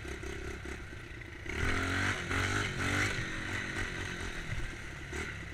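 Dirt bike engine running, quieter at first and then picking up speed and getting louder about a second and a half in.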